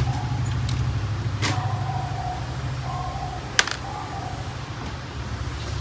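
A few sharp clicks and knocks as parts of a Canon MF4820d laser printer are handled during disassembly, the loudest about three and a half seconds in, over a steady low hum.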